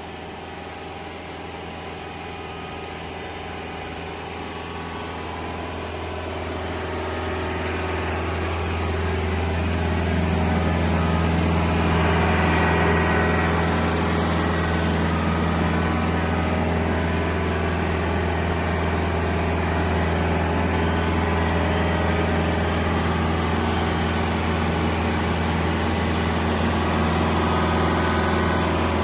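Boom lift's engine running, growing louder over the first ten seconds or so, then holding steady.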